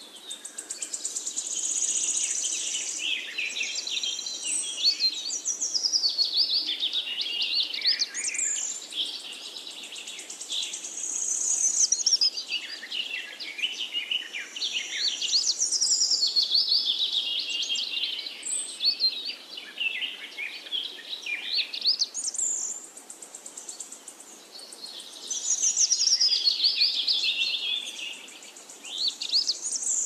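Small birds chirping and singing in fast, high phrases that often fall in pitch, swelling and easing off every few seconds.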